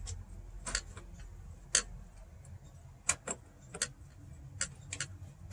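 About ten sharp clicks and ticks at irregular spacing, the sound of small hardware being handled and set in place by hand. The loudest click comes just before 2 seconds in, and another falls at the end.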